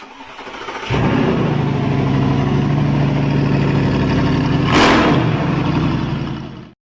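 A motor running steadily with a low hum, coming in sharply about a second in, with a brief louder rush near five seconds, then cut off abruptly.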